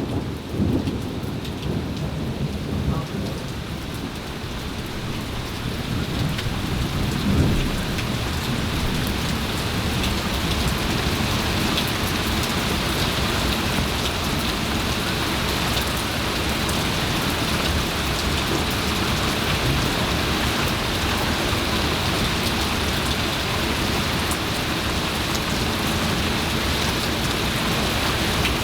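Heavy thunderstorm rain pouring down steadily, building over the first several seconds. Thunder rumbles at the start and again about seven seconds in.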